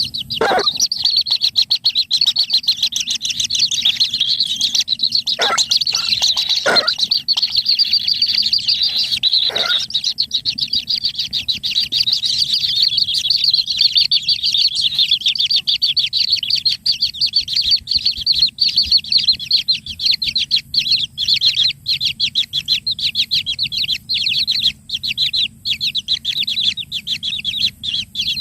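Bird chirping in a rapid, unbroken run of high-pitched notes, with a few harsher, louder calls in the first ten seconds.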